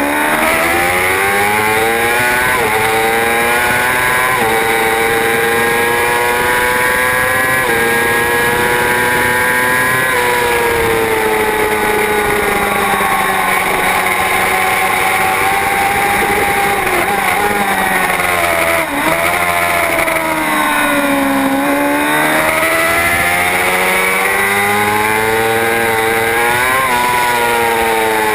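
Superbike racing motorcycle engine at race pace. It climbs through the gears with a brief drop in pitch at each upshift over the first several seconds, slows with falling revs through the middle and a quick dip about two-thirds in, then accelerates hard again.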